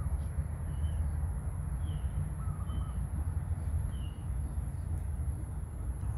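Outdoor background: a steady low rumble with small birds chirping faintly, roughly once a second, over a constant thin high whine.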